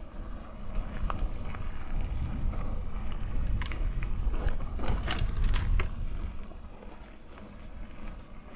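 Mountain bike ridden on a trail: low wind and tyre rumble on the bike-mounted microphone, with scattered clicks and rattling knocks over rough ground, heaviest in the middle and easing near the end.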